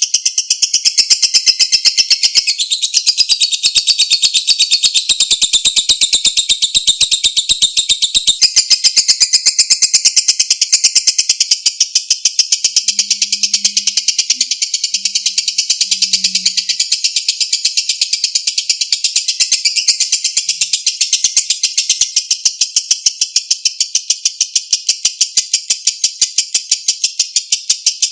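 Lovebird ngekek: one long, unbroken run of rapid, high-pitched chattering notes, many to the second.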